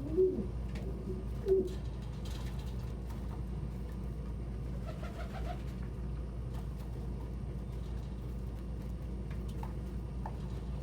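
Domestic pigeons cooing: two short low coos in the first couple of seconds and a fainter one about five seconds in, over a steady low hum.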